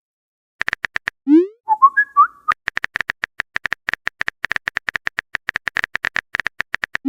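Text-chat sound effects: a short rising swoosh and a chirpy message-notification jingle about a second and a half in, then a fast, even run of keyboard typing clicks, about eight or nine a second.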